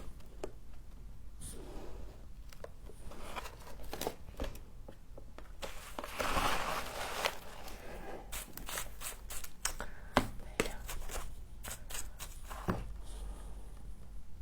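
Freezer frost being bitten and chewed close to the microphone: irregular crisp crunching and crackling, densest about six seconds in, with a sharp snap about ten seconds in.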